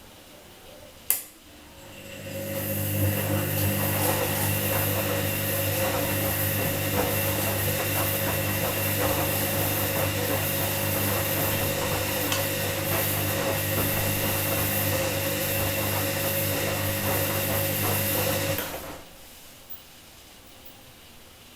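Washing machine cycling: a click about a second in, then a steady even hum with rushing water that runs for about sixteen seconds and stops abruptly near the end.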